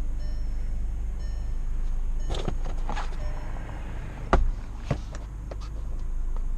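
Volkswagen GTI's turbocharged four-cylinder engine, fitted with an IS38 turbo, idling just after being started, a steady low rumble. A short high chime beeps repeatedly through the first half, and a few sharp clicks and knocks come from inside the car, the loudest a little past the middle.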